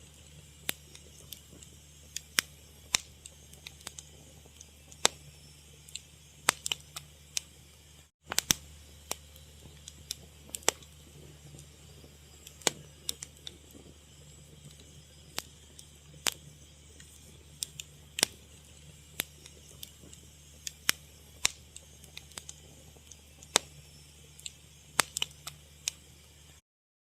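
Wood fire crackling: irregular sharp pops and snaps, a few a second, over a low steady hum. The sound cuts out for a moment twice.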